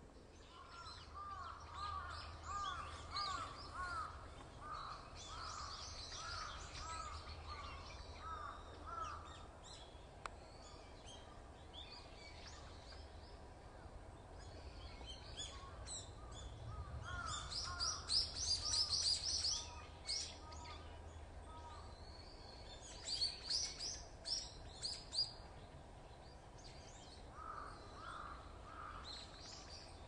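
Wild birds calling in woodland: a run of short, rising-and-falling calls repeated about twice a second through the first ten seconds, returning briefly twice later, with bursts of sharp high ticks that are loudest past the middle.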